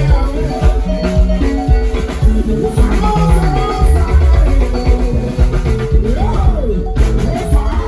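Rumba band playing live: a stepping bass line under melodic instrument lines, with drums and a shaker keeping the beat.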